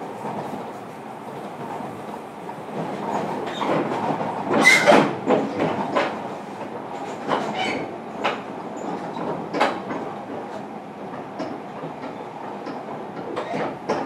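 JR Kyushu 305 series electric train running at speed, heard inside the car: a steady rumble of wheels on rail with irregular clicks and knocks as the wheels cross rail joints, densest and loudest about five seconds in.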